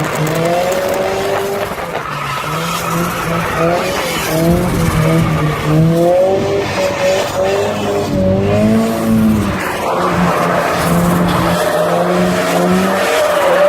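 Turbocharged BMW Z3 drift car's engine revving hard, its pitch rising and falling again and again as the throttle is worked, over the squeal of tyres sliding sideways in a drift.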